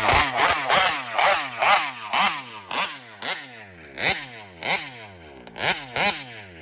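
Large-scale RC car's two-stroke gas engine blipped over and over, about two sharp revs a second, each one falling back toward idle. The carburettor is being tuned.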